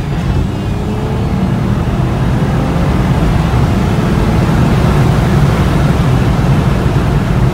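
BMW 335i's twin-turbo N54 3.0-litre straight-six pulling hard under acceleration, heard from inside the cabin, getting louder over the first few seconds.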